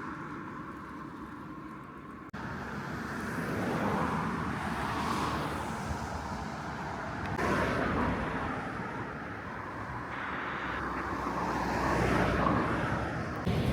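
Road traffic: cars passing one after another, each swelling and fading away. The sound jumps abruptly about two seconds in, at a cut between shots.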